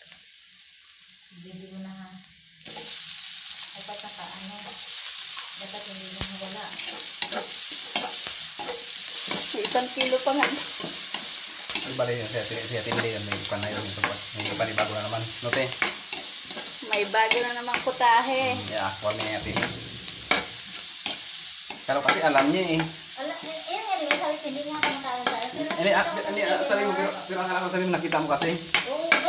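Sliced onion dropped into hot margarine and garlic in a wok, setting off a sudden loud sizzle about three seconds in. It keeps frying steadily while a spatula stirs, with frequent clicks of the spatula against the pan.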